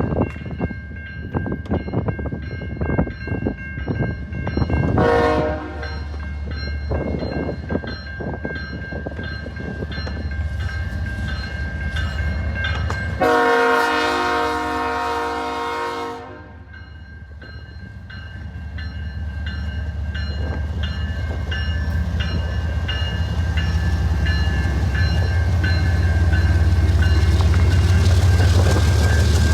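A train passing, its wheels clicking over the rail joints, with a short horn blast about five seconds in and a longer horn blast of about three seconds near the middle. After that a low, steady rumble builds until it is loudest near the end.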